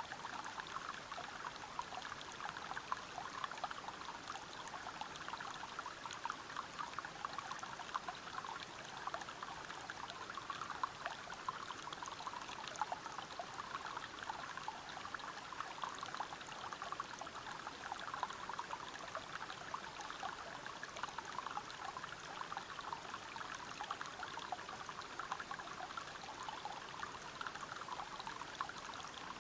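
River water flowing and splashing over rocks: a steady, even rush thick with small splashes.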